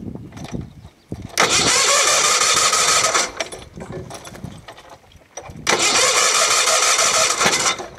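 Case 446 garden tractor's electric starter cranking the engine in two bursts of about two seconds each, the engine turning over without catching: the ignition is giving no spark.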